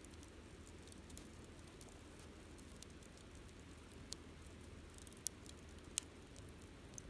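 Wood campfire crackling faintly, with a few sharp pops over a low, steady background; the loudest pops come about four, five and six seconds in.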